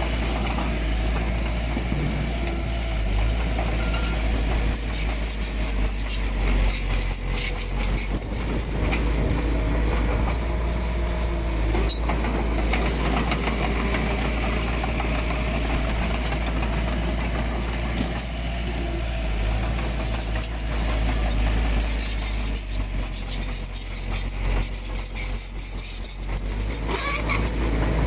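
Komatsu D20P bulldozer's diesel engine running steadily under load, with a deep low rumble. Two stretches of high-pitched clatter and scraping come through, one about five seconds in and one over the last third.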